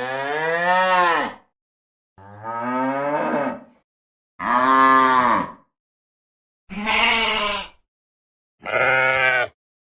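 Cow mooing: five separate moos, each about a second long, with clean silent gaps between them.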